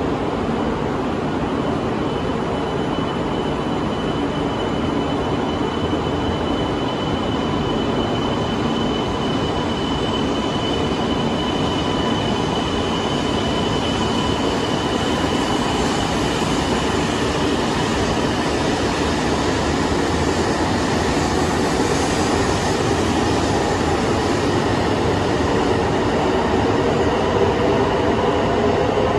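E2 series Shinkansen pulling out of the station and picking up speed alongside the platform: a steady rumble of wheels and running noise, with a thin high tone through the first half and a motor whine that rises gradually in pitch as the train accelerates.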